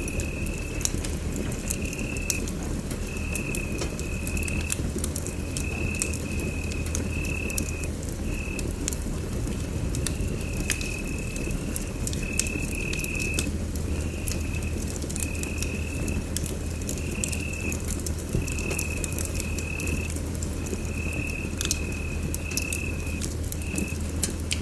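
Wood fire crackling in a fireplace, with frequent sharp pops over a low steady rumble. A high tone sounds in short pulses about once a second behind it.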